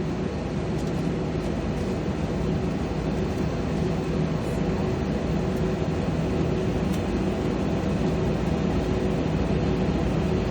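Steady cabin drone inside an Airbus A321 holding in position on the runway with its jet engines at idle: a continuous low hum with a few steady tones, growing slightly louder over the few seconds.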